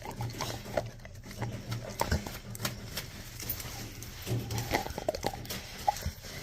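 Pitbull chewing a rawhide bone, with irregular clicks and crunches of teeth on the chew.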